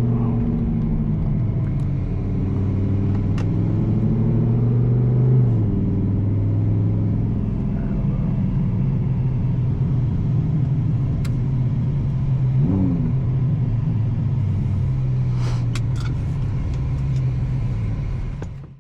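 Twin-turbo Audi R8 V10 engine running at a steady, low cruising speed, its note dipping briefly about five seconds in and wavering again a little past the middle. A few sharp clicks are heard near the end.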